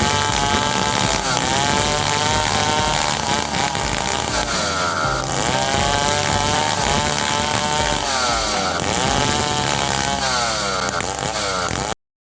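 Stihl 070 two-stroke chainsaw sawing wood, its engine pitch sagging and recovering about three times as it works through the cut. It cuts off abruptly near the end.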